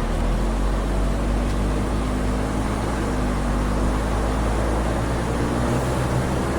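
Heavy truck's diesel engine running steadily, with a strong low drone and a few even tones that shift only a little in pitch.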